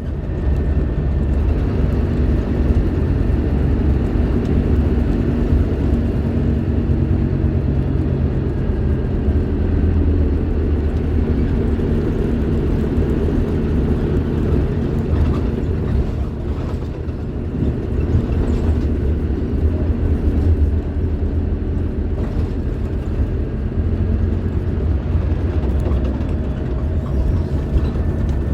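Scania K310IB bus diesel engine running steadily under way, easing off briefly a little past halfway.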